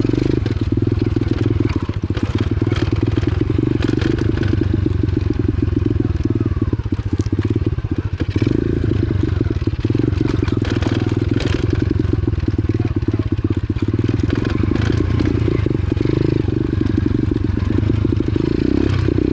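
125cc X-Pro pit bike's single-cylinder engine running at a fairly steady throttle on a dirt trail. Scattered rattles and crunches from the bike and the trail surface sound over it.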